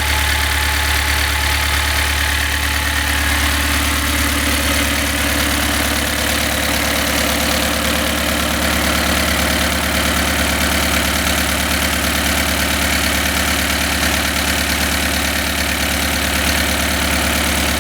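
GM Opel 2.3-litre four-cylinder diesel engine idling steadily, running well after being fitted into the van.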